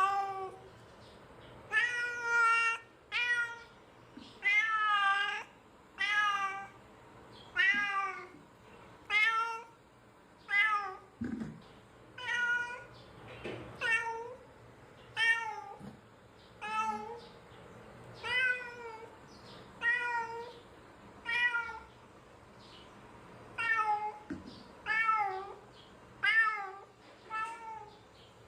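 A cat meowing over and over, about twenty meows spaced roughly a second apart, each wavering in pitch.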